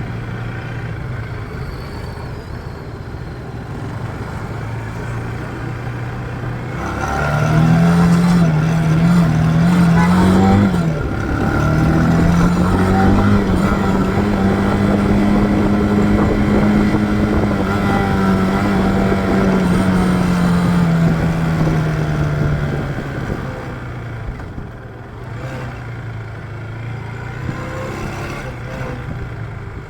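Motorcycle engine running at a low, steady note, then accelerating. The pitch climbs, drops sharply for a moment as with a gear change, holds steady for several seconds and falls away as the bike slows toward the end.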